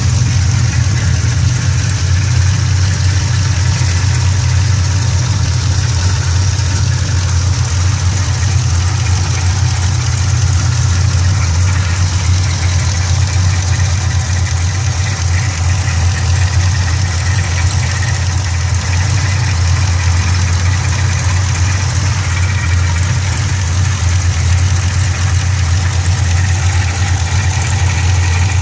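Engine idling steadily, with a low hum and a constant high hiss. The owner calls its drive belt bad.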